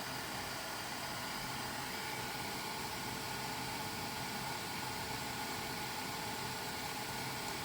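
3D printer's cooling fans whirring steadily, with a faint steady whine, as the printer cools down during its automatic start-up routine.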